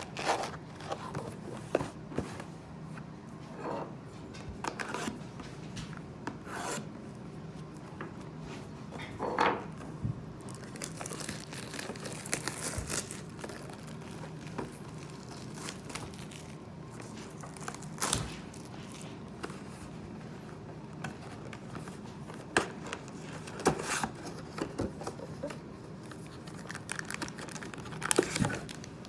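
A sealed box of Panini Prizm basketball trading cards being opened by hand: wrapping tearing, cardboard and plastic rubbing and crinkling in irregular bursts, with sharp cracks now and then.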